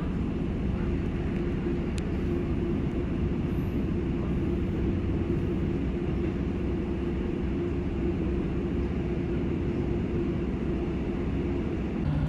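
Northern Class 150 diesel multiple unit under way: a steady diesel engine drone mixed with wheel and rail noise, heard from on board. The engine note shifts just before the end.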